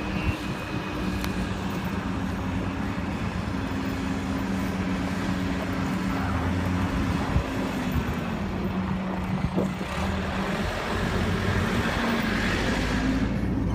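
Car driving through snow: the engine hum holds steady over continuous road noise, and a rushing hiss swells near the end.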